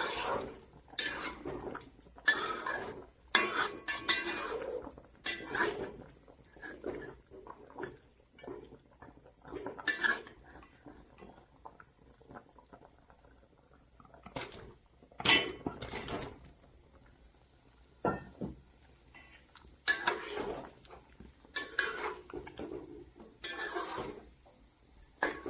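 Dishes, pots and cutlery clinking and clattering in irregular clusters, with quieter gaps between.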